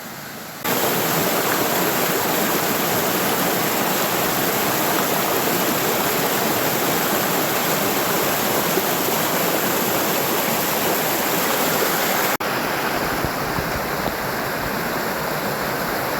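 Waterfall on a mountain stream, a steady heavy rush of water. It comes in abruptly about half a second in. After a brief dropout near the end it goes on slightly quieter and duller.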